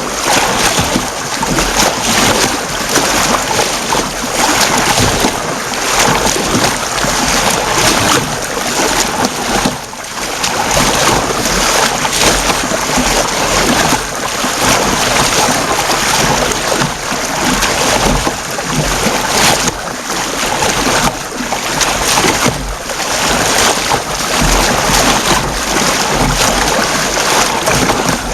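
Sea water splashing and rushing around an Ocean Kayak Mysto as it is paddled, loud and continuous with uneven surges, mixed with wind on the microphone.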